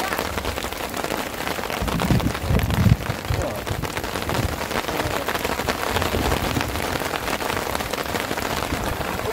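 Steady rain, with many close drops striking a hard surface, and a few low thumps about two to three seconds in.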